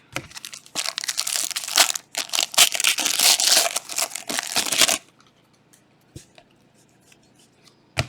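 A foil Panini Prizm trading-card pack wrapper being torn open and crinkled for about five seconds, then stopping. A single sharp click comes near the end.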